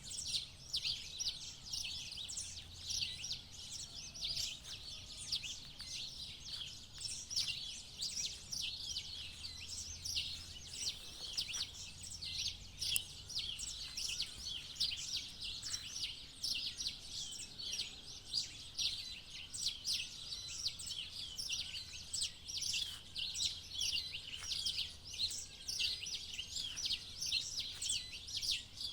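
Dawn chorus of many birds chirping at once, a dense unbroken chatter of short high calls, over a faint low hum.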